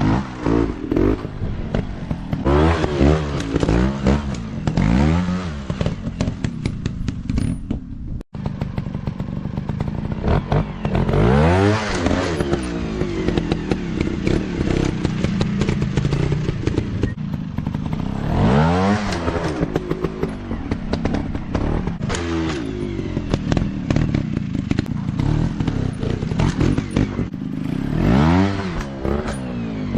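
Single-cylinder dirt bike engine revved hard and let off again and again, its pitch sweeping up and falling back several times, with clattering knocks mixed in.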